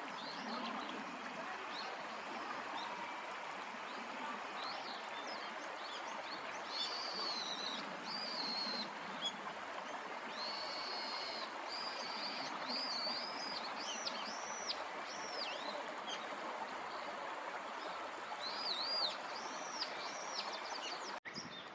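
Small birds singing: repeated high, arching whistled notes, busiest in the middle stretch, over a steady rush of flowing water. The sound breaks off abruptly near the end.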